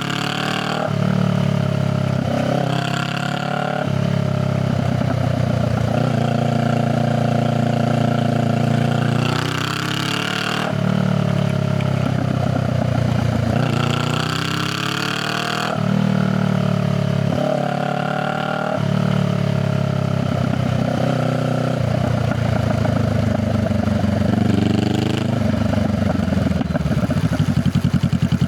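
Honda Rebel 500's parallel-twin engine heard through its exhaust on the move, pulling up in pitch and dropping back at each gear change, again and again. Near the end it winds down and settles into a steady idle.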